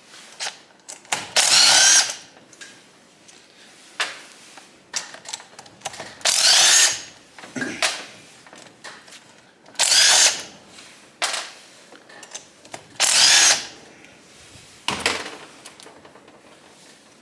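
Handheld power drill run in four short bursts of about a second each, its motor whine bending in pitch as it spins up and slows, with light clicks and knocks between the runs.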